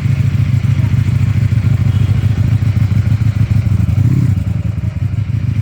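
Ducati Panigale V4 motorcycle's V4 engine running at idle through its stock exhaust, a steady, loud, pulsing low note.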